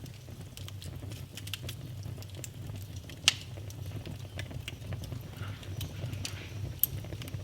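Wood fire burning in a fireplace: irregular crackles and snaps over a low steady rumble, with a sharp pop about three seconds in and another near the end.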